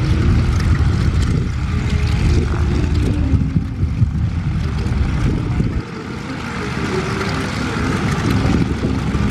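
Several vintage biplanes' radial engines (220 hp Continentals and a 300 hp nine-cylinder Lycoming) running at idle with propellers turning, a steady low rumble. The sound drops suddenly about six seconds in, then builds back up.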